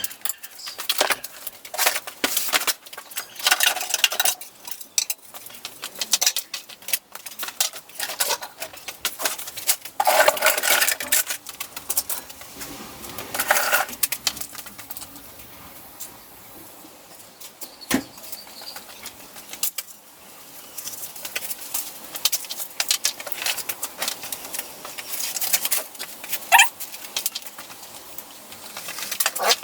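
Workshop handling noises: irregular metallic clicks, clinks and knocks with bursts of rustling as parts and tools are handled on the motorcycle, with one sharper knock about two-thirds of the way through.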